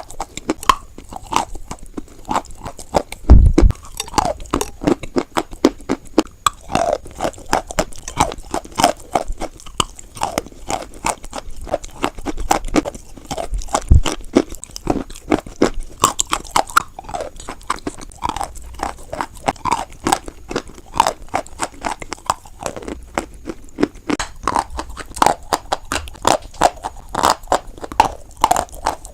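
Close-up crunching of white chalk being bitten and chewed, a dense run of crisp cracks and crumbling clicks, with two dull thumps, one about three seconds in and one near the middle.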